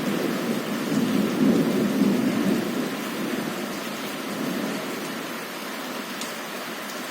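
A low thunder rumble fades away over steady heavy rain, swelling once more about two seconds in.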